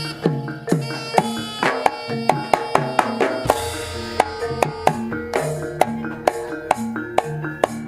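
Jaranan gamelan music played live: kendang hand drums beat a fast, busy pattern of strokes over steady ringing tones from the gong-chimes.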